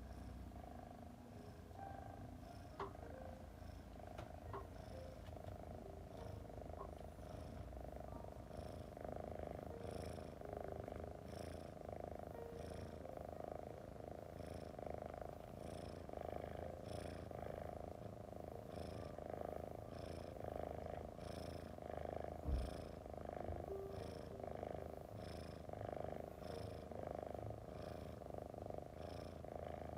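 Domestic cat purring steadily, the purr swelling and fading in a regular rhythm about once a second with its breathing. A single low thump comes about three-quarters of the way in.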